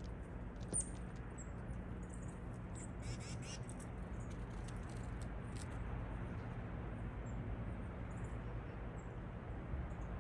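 Small birds chirping in short, high notes, many in the first half and sparser later, with a quick run of rapid notes about three seconds in, over a steady low outdoor rumble.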